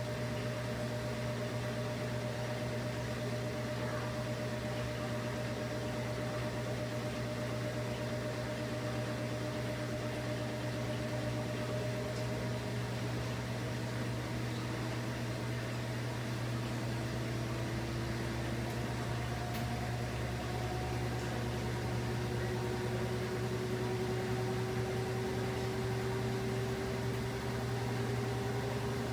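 Washing machine running: a steady low hum and swishing noise, with a motor whine that rises slowly in pitch as the drum gathers speed.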